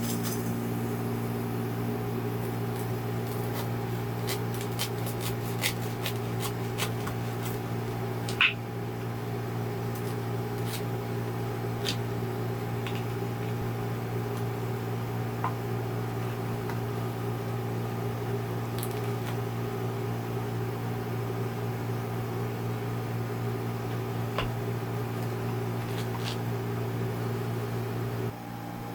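A small electric appliance runs with a steady low mechanical hum for almost half a minute, then switches off shortly before the end. A few faint scattered ticks and clicks sound over it.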